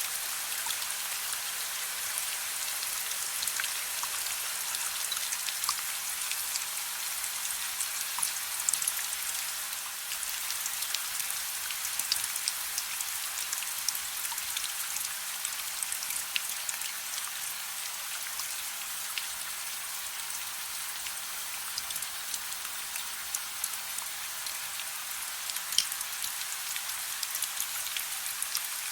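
Steady gentle rain: an even hiss with many scattered sharp drop ticks.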